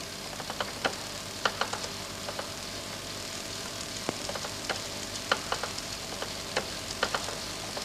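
Electrophoric (Wimshurst-type) machine running while charging a pointed conductor: a steady hiss with irregular sharp clicks and crackles, a few each second.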